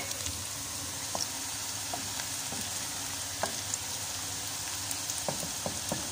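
Bitter gourd (karela) pieces sizzling as they fry in hot oil in a pan, a steady hiss with scattered small pops. They are close to light brown, not yet done.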